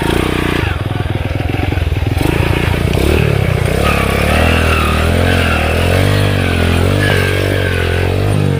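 Underbone motorcycle engine running under load, its pitch rising and falling over and over as the throttle is worked, steadier for the first few seconds.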